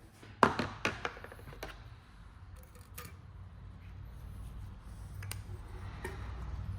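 Metal parts and hand tools being handled on a workbench: a cluster of sharp clicks and knocks in the first two seconds, a few single knocks later, and a low rumble that grows near the end.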